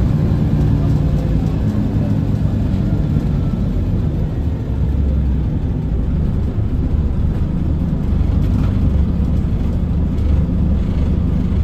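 Scania L94UB bus's diesel engine running steadily while the bus is under way, with road noise, heard from on board.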